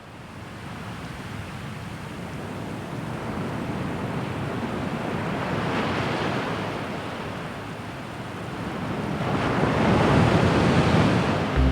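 Ocean surf washing in, with a wave swelling up around six seconds and a louder one from about nine seconds.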